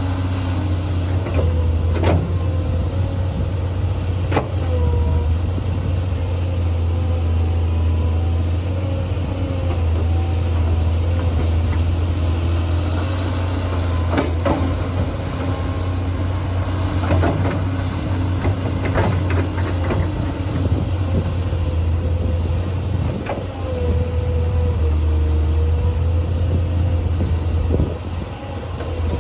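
Tractor engine running steadily with a low hum and a faint wavering whine, broken by several sharp knocks or clanks.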